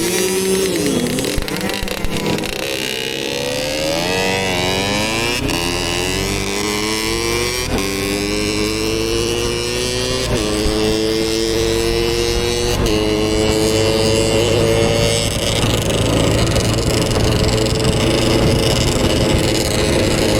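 Motorcycle engine accelerating up through the gears. Its pitch climbs and drops back at each of three upshifts, about eight, ten and thirteen seconds in, then holds steady at a cruising speed.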